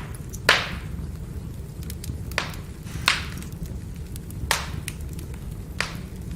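Burning firewood crackling, with five sharp pops about a second or so apart over the low, steady rumble of the flames.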